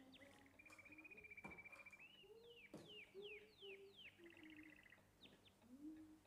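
Faint birdsong: a long held whistle, rapid trills and a run of quick downward-slurred notes, with softer lower notes beneath, and two soft knocks in the first half.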